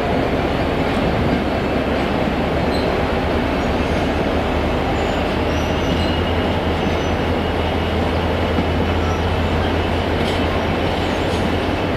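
A train running past close by: a steady rumble of wheels on rails, with a low hum that grows stronger about halfway through.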